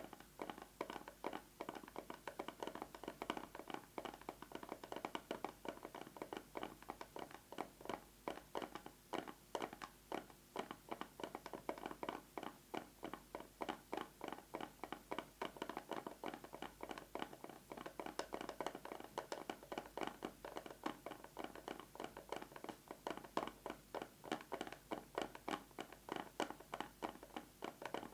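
Fast, continuous fingernail tapping on a plastic box with a metal lid, several quick taps a second, with no break.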